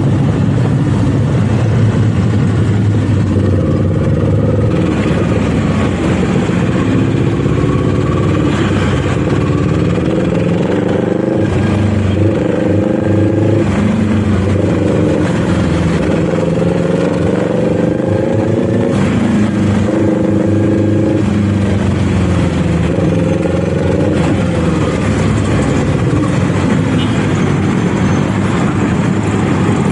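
Kawasaki Z400's parallel-twin engine riding under throttle, its pitch climbing and then dropping back over and over as it pulls and shifts through the gears.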